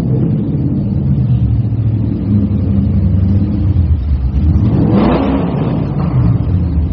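Toyota Sera's engine running, with a brief rev about five seconds in.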